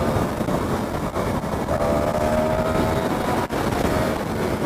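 Motorcycle running on the road, its engine rumble mixed with the rush of wind and road noise. A brief higher pitched tone sounds over it about two seconds in.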